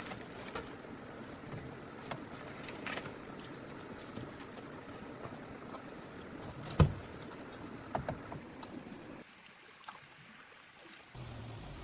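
A steady rushing noise with scattered clicks and knocks, the loudest a single sharp knock about seven seconds in; the noise drops away briefly about two seconds before the end.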